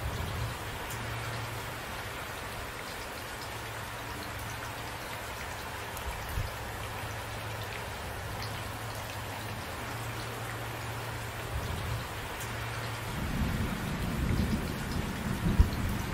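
Steady rain falling, with a roll of thunder building from a low rumble in the last few seconds and cracking sharply near the end.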